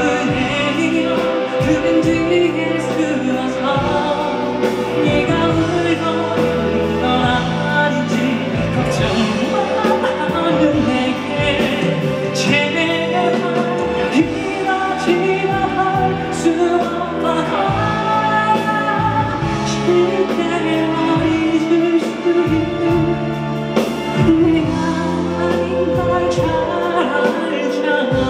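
Live band playing a pop ballad with singing over it, steady and full throughout.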